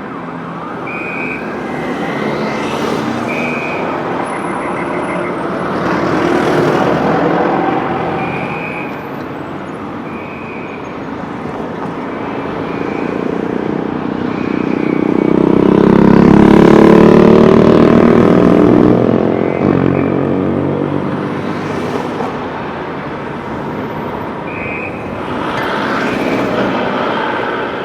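Busy city street with vehicles passing. The loudest is an engine going by close about halfway through. Short high-pitched tones sound now and then.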